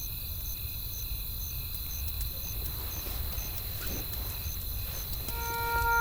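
Night-forest campfire ambience: a steady low rumble of wind and fire, with faint scattered crackles of burning wood and cricket chirps repeating a few times a second. Near the end a held, bell-like musical tone comes back in.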